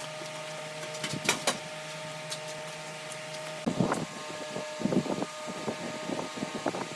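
A steady electric machine hum in a workshop, with a few sharp clicks about a second in and irregular knocking and scraping from about halfway through.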